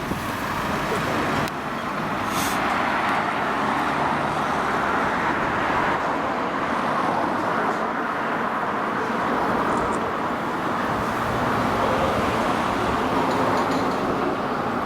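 Steady road traffic noise, an even rushing hum of vehicles on the road.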